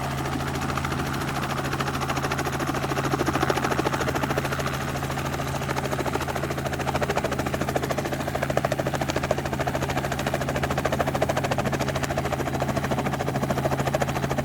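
Helicopter running steadily, a constant low hum under a fast, even rotor chop.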